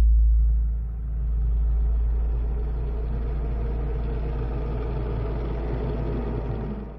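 Vehicle rumble: a steady low hum with rough road and engine noise that builds up after about a second, then cuts off suddenly at the end.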